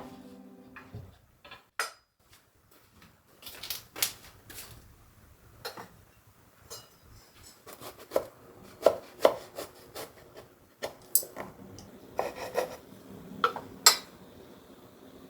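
Dishes and kitchen utensils knocking and clinking: a string of irregular, separate sharp knocks, coming thicker and louder in the second half.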